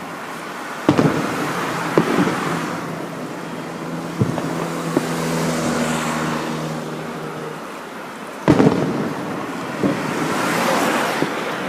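Aerial fireworks shells bursting with sharp bangs about a second in, two seconds in, four seconds in and again near eight and a half seconds. Each burst trails off into crackling. A steady pitched tone sounds for about three seconds in the middle.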